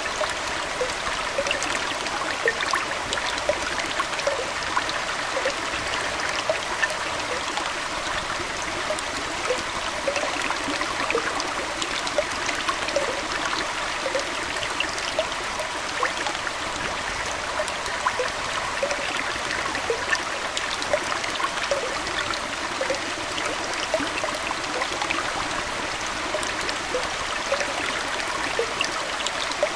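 Aquarium water trickling steadily, with many small plops and splashes scattered through it.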